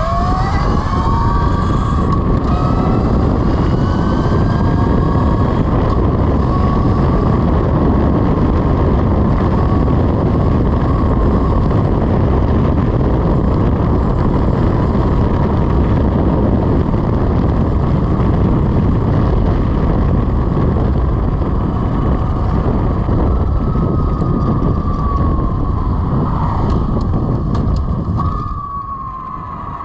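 Velimotors VMX12-F electric motorcycle under way: the electric motor's whine rises in pitch over the first few seconds as it accelerates, holds steady, then falls over the last several seconds as it slows, all under heavy wind noise on the microphone.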